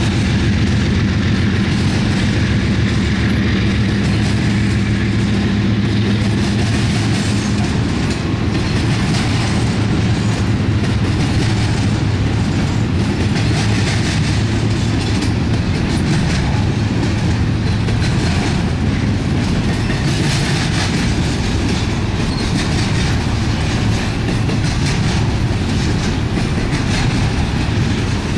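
Freight train passing: CSX flatcars loaded with highway trailers rolling by, steel wheels on the rails making a steady rumble with a clickety-clack over the rail joints.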